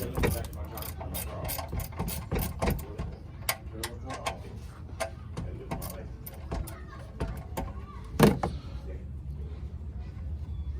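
Ratcheting wrench clicking fast as it loosens an oil drain bolt. The clicks thin out to scattered ticks after about four seconds. One louder knock comes about eight seconds in.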